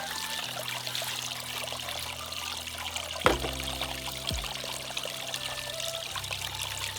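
Running water trickling and pouring over soft background music with long held notes. A single sharp knock comes about three seconds in.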